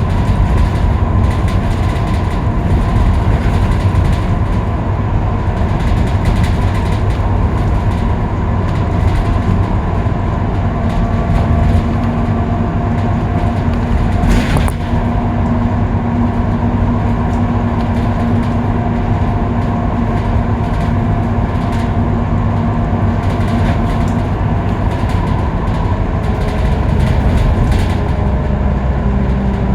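Scania K310UB bus's rear-mounted diesel engine running steadily at freeway speed, heard from inside the bus as a constant low drone with road noise. A single sharp click comes about halfway through, and the engine note shifts slightly near the end.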